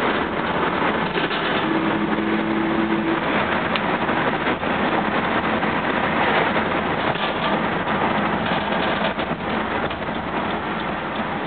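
A 1979 Hurst/Olds being driven on the road, its engine and road noise making a steady noise. A loose catalytic converter heat shield underneath rattles along with it.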